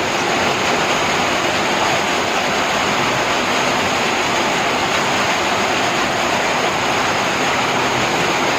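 Heavy rain pouring down: a loud, steady, unbroken hiss.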